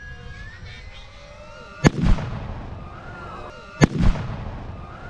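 Pyrotechnic charges set off in a mock air-raid reenactment: two blasts about two seconds apart, each a sharp crack followed by a deeper boom. The whine of model aircraft motors carries on in the background.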